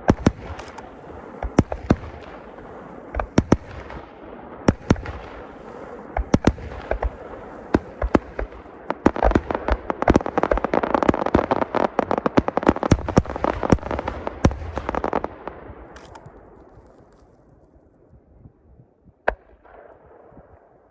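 Aerial fireworks going off: a series of sharp bangs, then a dense, rapid crackling volley in the middle that dies away, with one more lone bang near the end.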